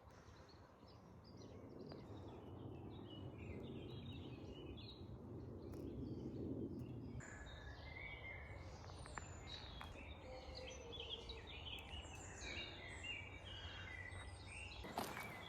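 Several birds chirping and singing, many short repeated calls, over a low steady outdoor rumble. Footsteps start near the end.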